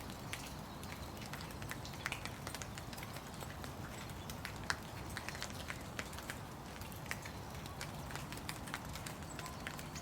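Steady rain: a soft hiss with scattered drops tapping irregularly.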